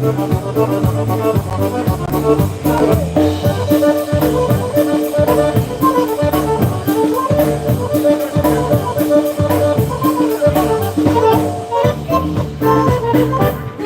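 Live polka band playing an instrumental passage: brass and accordion over a bouncing bass line, with a steady drum-kit beat.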